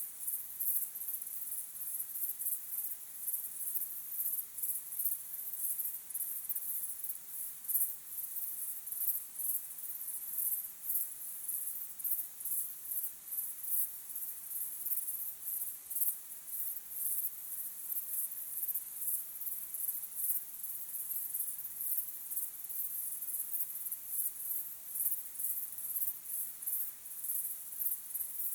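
Crickets chirping in a steady evening chorus: a high-pitched, pulsing trill that keeps on without a break.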